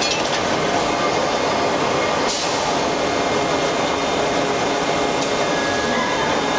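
Steady, loud din of forging-shop machinery, with one brief sharper noise about two seconds in.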